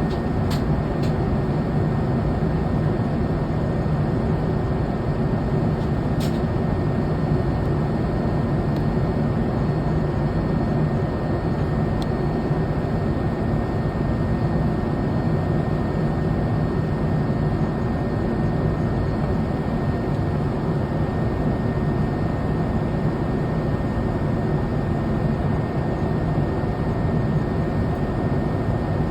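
Steady cabin noise of a Boeing 787 Dreamliner in flight: an even rush of air and engine noise with a low hum and a faint steady high whine.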